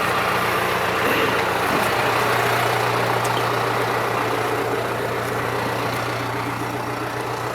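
Tractor diesel engine idling steadily, a low even hum under a broad rushing noise.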